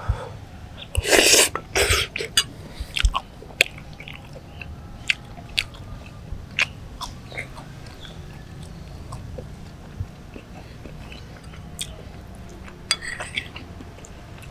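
Someone eating mie godog, boiled Javanese noodles: chewing and mouth sounds with many short, scattered clicks, and two louder noisy bursts between about one and two seconds in.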